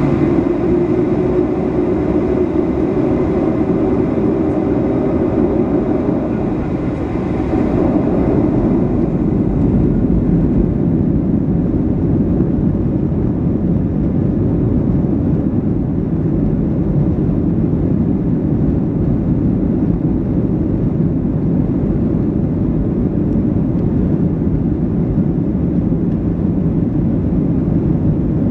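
Boeing 737-700's CFM56-7B jet engines at takeoff power, with a rising whine over the first few seconds that gives way to a steady, loud, deep rumble.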